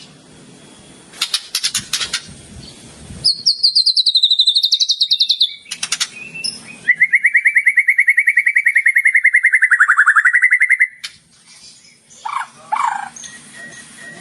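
White-rumped shama (murai batu) singing mimicked phrases. A few sharp chips give way to a rapid, high trill of about two and a half seconds, then a longer rapid trill, lower in pitch, lasting about four seconds and dipping near its end. Two short falling notes follow.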